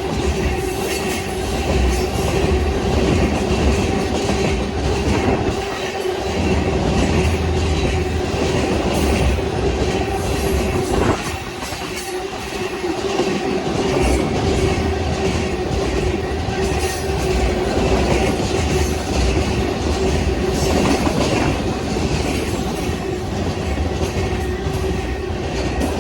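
Union Pacific freight train cars rolling past close by, wheels clacking over the rail joints with a steady rumble and a steady tone running under it; the sound dips briefly about eleven seconds in.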